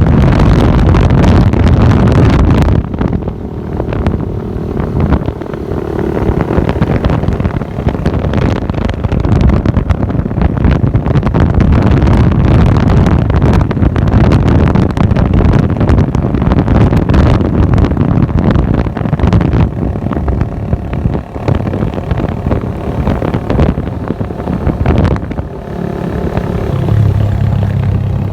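Modified exhaust of a Bajaj Boxer's single-cylinder four-stroke motorcycle engine running loud and rough while being ridden, with wind buffeting the microphone. Near the end the engine settles into a steadier, lower note.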